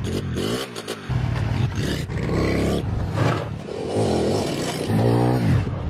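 Honda 90's small single-cylinder four-stroke engine running and being revved up and back down several times.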